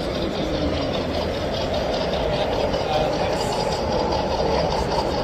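Steady din of a busy exhibition hall: many distant voices blending into a constant murmur and hum.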